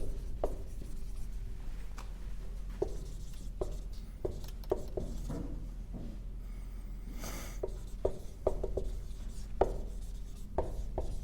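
Writing on a classroom board: irregular light taps and short strokes of the writing tool against the board, with one longer scratchy stroke about seven seconds in.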